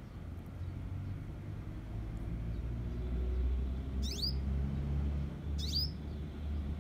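Two short, sharp bird calls, each a quick downward sweep from high to mid pitch, about a second and a half apart in the second half. Beneath them runs a steady low rumble.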